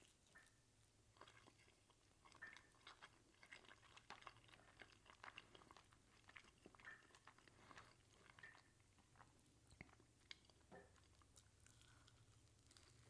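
Faint chewing of a mouthful of Spanish tortilla (potato and egg omelette): a run of soft, irregular mouth clicks and small crunches.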